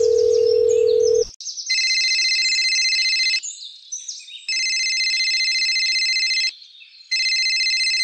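A steady low tone like a telephone dial tone for about a second. Then a telephone rings three times, each high, fluttering ring lasting about two seconds with a short gap between.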